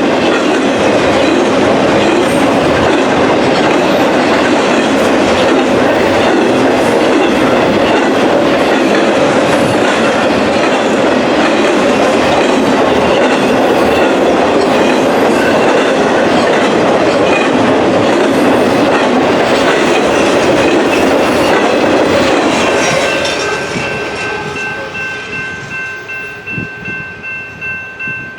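A train's cars rolling past close by: a loud, steady rush of steel wheels on rail with clickety-clack. About 23 seconds in, the end of the train goes by and the sound falls away, leaving a thin, high ringing tone from the rails and fading wheel clicks.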